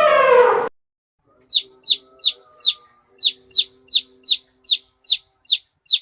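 A chick peeping: about a dozen short, high chirps, each falling in pitch, repeated evenly about two and a half times a second. Before it, a pitched, falling call cuts off under a second in.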